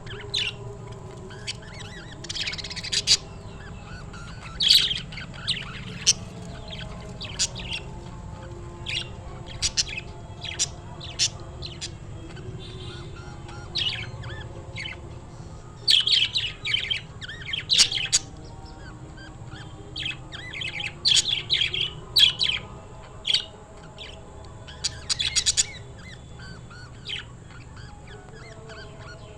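A bird chirping over and over: short, sharp high-pitched chirps, some single and some in quick clusters, at irregular intervals, over a faint steady hum.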